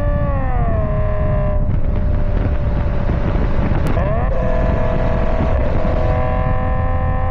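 Subaru EZ30R flat-six running through an aftermarket exhaust of Raptor headers, MagnaFlow high-flow cats and X-pipe, and Kakimoto Regu06&R titanium mufflers. Its note drops in pitch just under a second in, is covered by a rushing noise for about two and a half seconds, then settles back to a steady tone.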